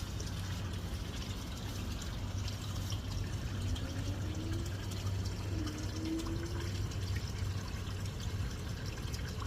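Steady rushing background noise with a low hum underneath, and faint short rising tones about 4 and 6 seconds in.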